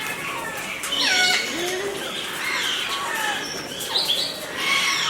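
A mixed flock of Australian parrots calling at once: overlapping squawks and short whistles, many of them falling in pitch.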